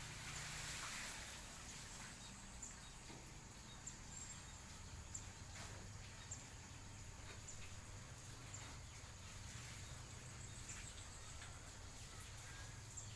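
Faint outdoor ambience picked up by a CCTV camera's microphone: a steady hiss and low hum, with scattered small ticks and brief faint chirps.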